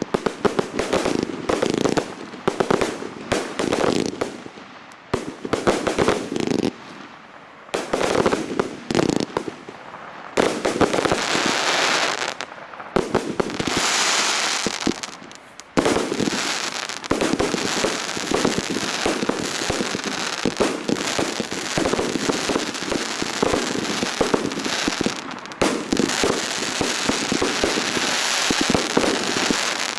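Fireworks display: a rapid string of shell bursts and bangs, then a hissing, crackling stretch about halfway through, followed by a dense, unbroken run of bangs and crackle.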